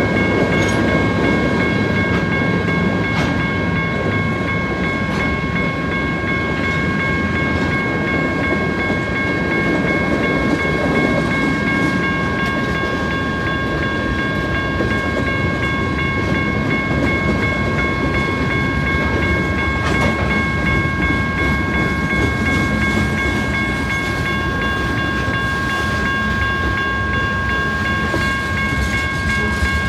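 Freight train of tank cars, boxcars and lumber-loaded flatcars rolling past close by: a steady rumble and rattle of steel wheels on the rails, with several steady high-pitched ringing tones above it.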